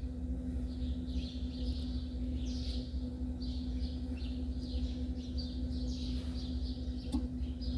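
Small birds chirping repeatedly, short falling chirps, over a steady low hum.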